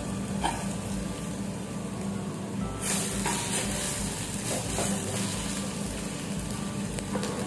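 Jackfruit-seed masala frying in a heavy black kadai, a steady sizzle with a wooden spatula stirring and scraping the thick mixture; the sizzle grows louder about three seconds in, once the lid is off and stirring starts.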